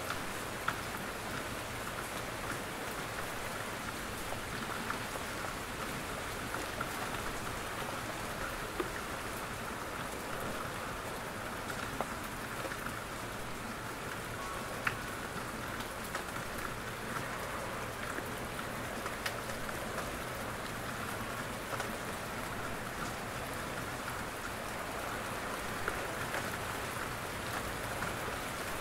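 Steady rain falling in a forest, an even hiss dotted with scattered louder drops falling from the trees.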